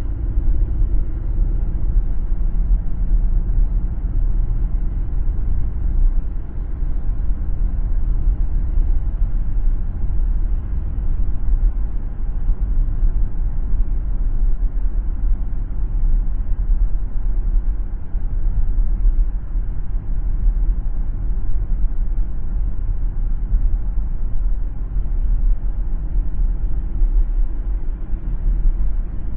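Steady low rumble of a car driving along a road, tyre and engine noise without letup.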